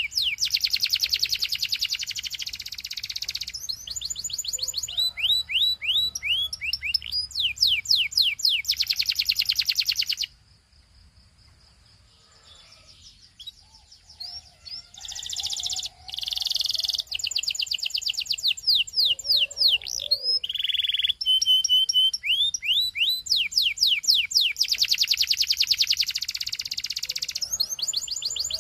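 Canary singing in fast trills of rapidly repeated down-sweeping whistled notes, with dense buzzy rolls between them. The song breaks off for a few seconds about ten seconds in, then resumes.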